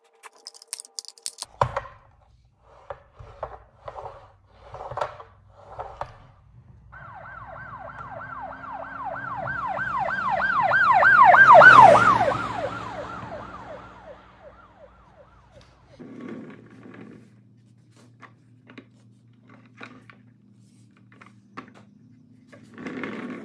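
A police siren's fast up-and-down yelp, about four sweeps a second, swells to a loud peak and fades away as if driving past. Before it come a thunk and a few short knocks.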